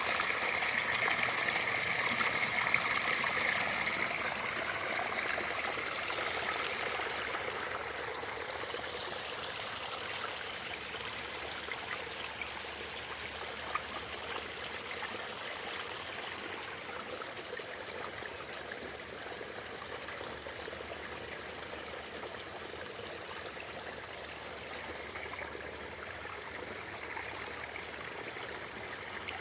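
Running water flowing steadily, louder for the first several seconds and then even.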